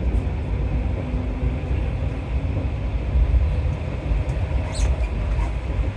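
Rubber-tyred MP14 metro train heard from inside, running with a steady low rumble as it slows into a station, with a brief high squeal about five seconds in.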